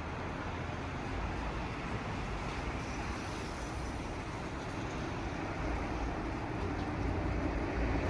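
Steady vehicle noise: a low rumble with an even hiss, growing a little louder near the end.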